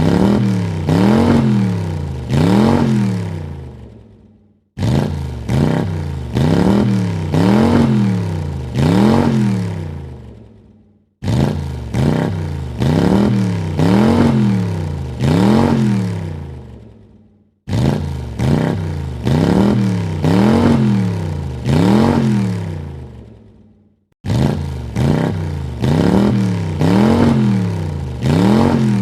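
Car engine blipped through several quick revs, the pitch climbing and falling with each one, then dropping back and fading out. The same short recording starts again abruptly about every six and a half seconds.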